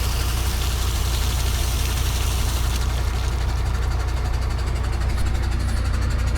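Steady engine and road rumble heard inside a moving car's cabin: a constant low drone with tyre hiss above it.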